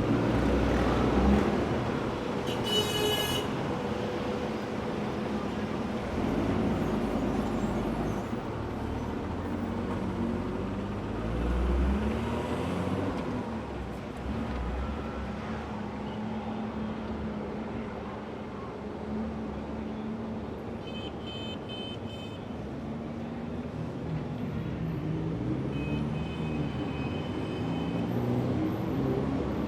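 Busy city street traffic: a steady wash of passing cars and the low engine rumble of heavier vehicles, swelling about a second in and again about twelve seconds in. A few short high-pitched squeals cut through, a few seconds in and twice in the last third.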